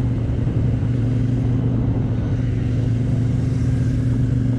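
Motorcycle engine running at a steady speed, its pitch constant throughout.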